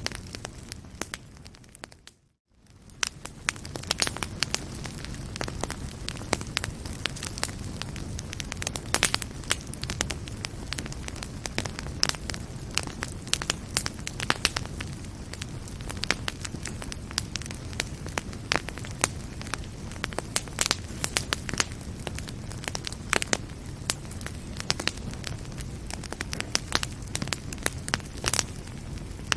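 Wood fire in a fireplace crackling and popping over a steady low rumble of flames. About two seconds in, it fades out briefly and comes back.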